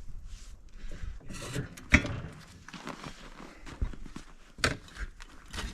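Clanks and knocks from working an old tire changing machine, one sharp clank about two seconds in and another near the end, with shuffling and rubbing between.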